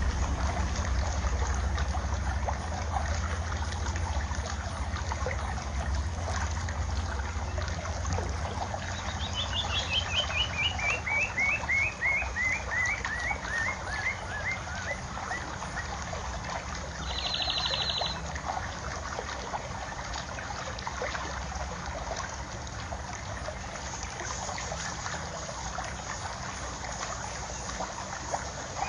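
Steady trickling water, with wind rumbling on the microphone, easing after about ten seconds. About nine seconds in, a bird gives a long run of quick chirps that fall steadily in pitch, and a short buzzy call follows a little later.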